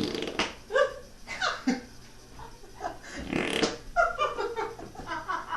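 A string of short fart noises, some popping and some with a sliding pitch, with one longer drawn-out one about three seconds in.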